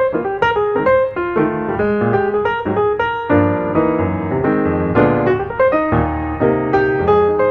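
Piano music: a steady run of notes and chords with an even rhythm.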